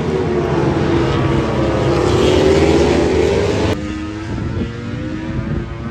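Racing motorcycle engines: the pitch drops as a bike slows into a corner, then climbs again as it accelerates out. The sound cuts off abruptly at about two thirds of the way through, giving way to a quieter, steadier engine note.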